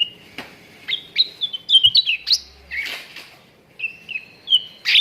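Cucak ranting birds calling in quick clusters of short, sharp chirps and whistled notes. A harsher, raspy note comes near the middle.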